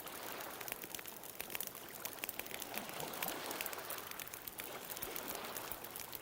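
Wood bonfire crackling with frequent small sharp pops over the wash of ocean waves, with a wave swelling and fading in the middle.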